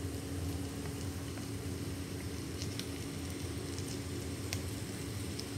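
Vegetable, bacon and ham mixture sizzling steadily in a wok over high heat, with a steady low hum underneath and a few faint light ticks.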